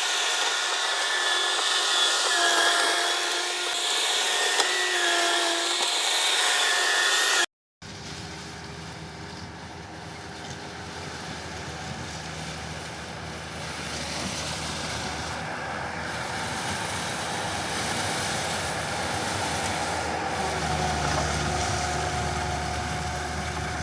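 Mini skid steer's engine running under work, first with a steady high whine, then, after a sudden cut about a third of the way in, a lower steady engine drone that slowly grows louder.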